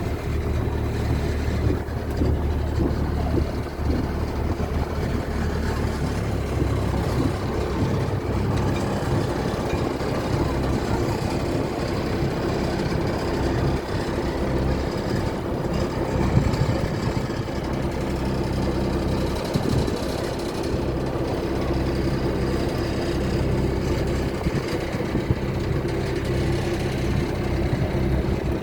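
Tour boat's diesel engine running steadily, heard on board with a steady low drone.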